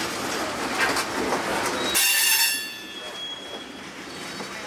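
Covered hopper cars of a slow-moving freight train rolling past, wheels knocking over the rail joints. About two seconds in, a wheel lets out a sudden high squeal, the loudest sound here, which fades away over about a second.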